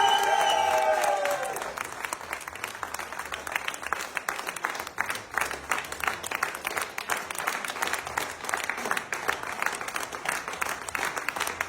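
A crowd applauding, a dense, even patter of many hands clapping. A loud pitched call trails off in the first second and a half.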